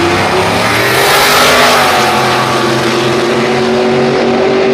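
LS V8 engines of drag-racing vehicles running loudly, with a surge of noise about a second in.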